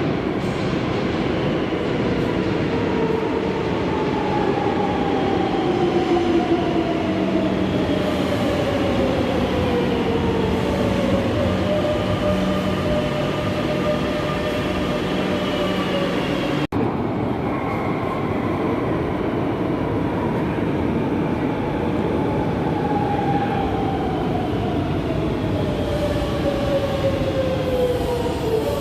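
Madrid Metro train running, with an electric whine that falls slowly in pitch over several seconds, heard twice, over a steady rumble. A brief dropout about 17 seconds in splits the two.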